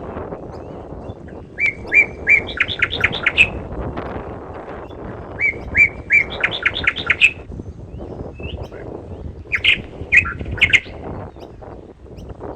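A songbird singing three phrases, each opening with a few evenly spaced notes and running into a quicker series of higher, sharper notes, over a steady low rumble of outdoor background noise.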